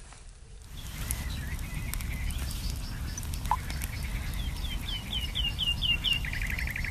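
A songbird calling over a steady low rumble: a few scattered high notes, then a run of about eight quick down-slurred notes, ending in a short buzzy trill.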